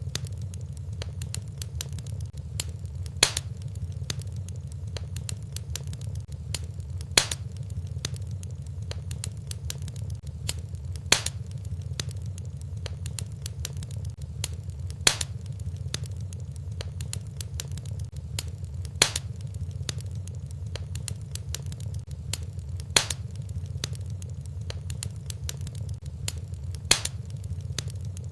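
Wood fire burning in a fireplace: a steady low rumble with small crackles throughout, and a sharper pop about every four seconds. The even spacing of the pops shows a looped recording.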